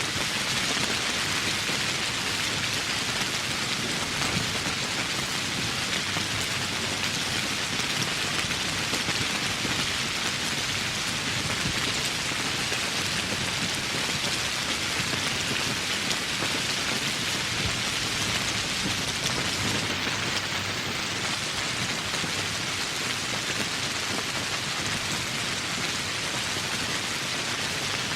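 Steady heavy rainfall in a tropical forest, an even hiss of rain pattering on foliage and surfaces.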